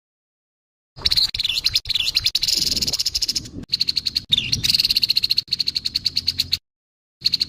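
Grey-headed babbler giving harsh, rasping chatter calls: rapid trains of pulses, about ten a second, starting about a second in, breaking off near the end and resuming after a short gap.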